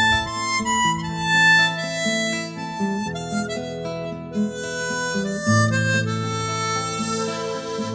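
Background music: a harmonica playing a melody over held chords.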